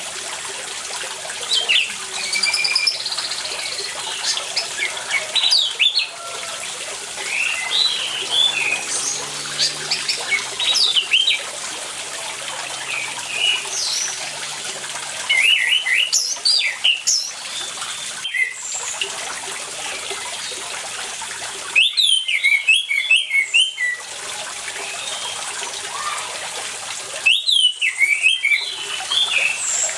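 Orange-headed thrush singing in short bursts of quick, varied notes, a phrase every few seconds, over a steady sound of running water. The loudest phrases come past the middle and near the end.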